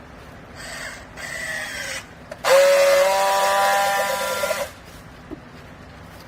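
Hydraulic textile baler machine whining in three runs, the last the loudest and steadiest, for about two seconds, before it stops abruptly.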